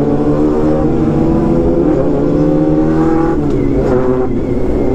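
Honda CB400 Super Four's inline-four engine pulling under acceleration. Its note climbs steadily, then drops about three and a half seconds in, as at a gear change, and climbs again.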